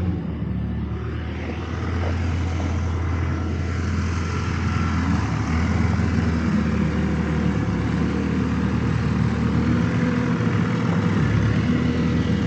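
A vehicle engine running steadily, a low drone that gets a little louder about two seconds in.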